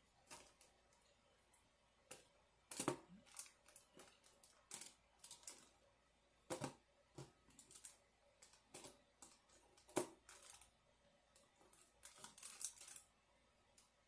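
Close-up eating sounds of quesabirria tacos: irregular soft clicks and crackles of biting and chewing, with the sharpest ones about 3 and 10 seconds in and a quick run of crackles near the end.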